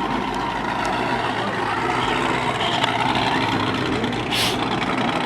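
Car engines running in the background as a steady mechanical noise, with a brief hiss about four seconds in.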